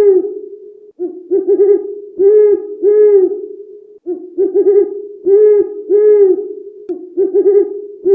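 Repeated hooting animal calls, three short arched hoots at a time, the set repeating about every three seconds over a steady hum.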